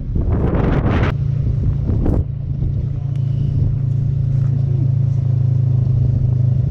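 Templar X 250 dirt bike engine running steadily at an even pitch, with wind buffeting the microphone over the first two seconds.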